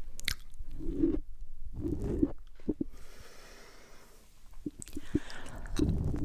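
Close-miked wet mouth sounds and licking on the microphone: clusters of tongue clicks, lip smacks and squelches, with a quieter stretch a little past the middle.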